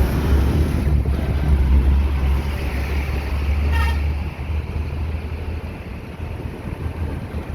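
Road traffic with a heavy engine's low rumble that eases off after about four seconds, and one short vehicle horn toot just before it does.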